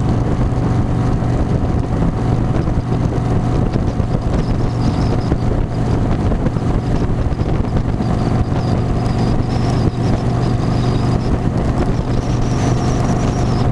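Harley-Davidson motorcycle engine running steadily at cruising speed, a constant drone with wind noise on the microphone.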